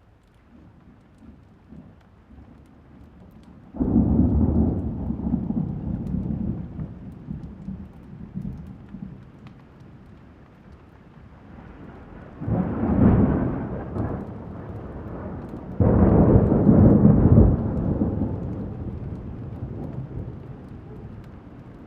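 Thunderstorm: steady rain with three peals of thunder, a sudden clap about four seconds in that rumbles away over several seconds, a shorter rumble a little past halfway, and another sudden clap soon after that rolls off slowly.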